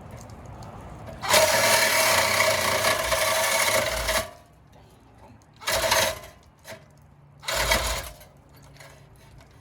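Electric power saw cutting into a car's exhaust pipe: one run of about three seconds, then two short bursts.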